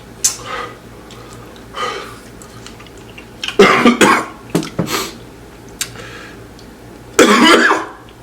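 A man coughing and clearing his throat in several short fits, the hardest a little past halfway and near the end.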